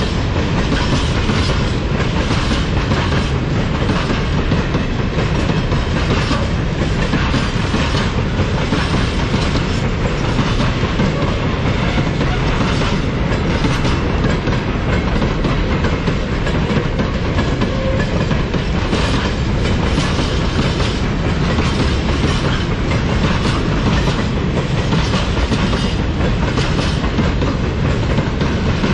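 A freight train's wagons rolling past at a steady pace, the wheels clacking repeatedly over the rail joints.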